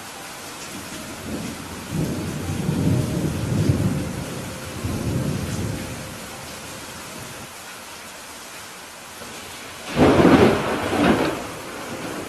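Steady rain falling, with a low roll of thunder rumbling about two seconds in and fading by six, then a louder, sharper thunderclap about ten seconds in.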